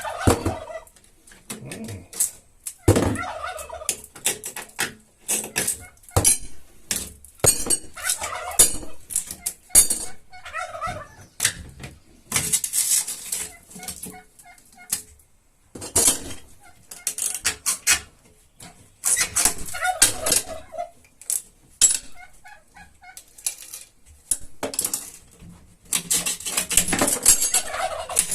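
Old window glass clinking, cracking and scraping as it is cut and pried out of a wooden frame, in many sharp clicks and knocks, with turkeys gobbling several times nearby.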